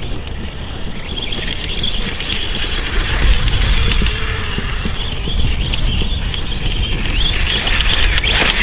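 Quarter-scale RC dirt bike's brushless electric motor and drivetrain running with a high whine as the bike is driven over dirt, over a low rumble of wind on the microphone.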